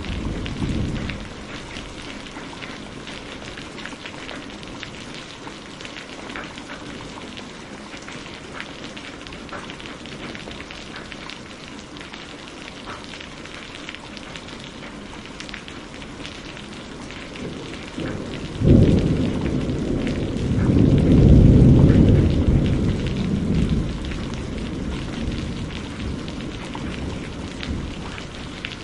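Steady rain falling, with fine drop ticks. About two-thirds of the way in, a sudden thunderclap breaks and rolls into a low rumble that swells for a few seconds and then fades; the tail of an earlier rumble dies away in the first second.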